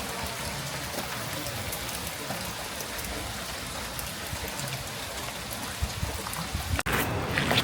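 Heavy rain falling, with many drops ticking on nearby surfaces. It breaks off abruptly near the end and comes back louder.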